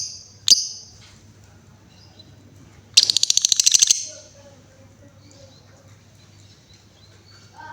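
Female lovebird giving two sharp ticking notes ('ngetik') in the first half second, then a rapid chattering trill ('ngekek') about a second long, starting about three seconds in.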